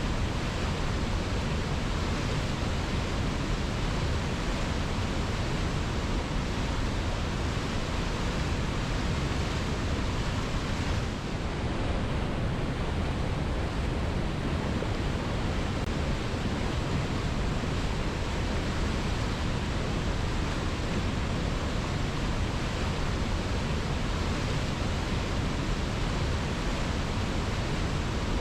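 Waterfall rushing in a steady, even roar of falling water with no let-up, dipping briefly about eleven seconds in.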